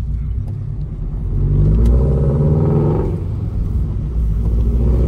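Subaru flat-four boxer engine of a GR86/BRZ fitted with Tomei unequal-length headers and an AWE cat-back exhaust, pulling under acceleration with an uneven boxer rumble. The note rises, eases off about three seconds in, then climbs again near the end.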